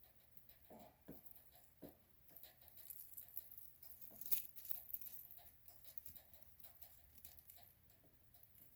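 Leopard gecko shedding: faint, irregular crunchy crackling and rustling of the dry old skin as it is peeled and rubbed off, with a louder crackle about four seconds in.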